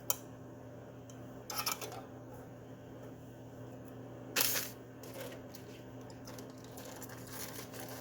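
Light kitchen handling sounds as drained canned chicken goes into a baking pan: a few clicks and knocks, then one short, louder scrape about four and a half seconds in. A steady low hum runs underneath.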